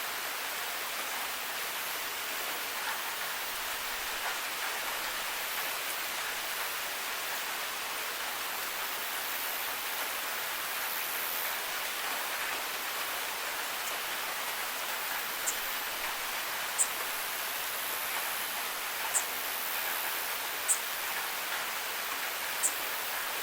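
Steady rain, an even hiss, with a few brief sharp high ticks in the second half.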